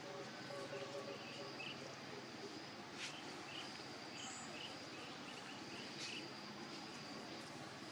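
Faint outdoor ambience: a steady high insect drone, a run of short high chirps in the middle, and two sharp clicks, about three and six seconds in.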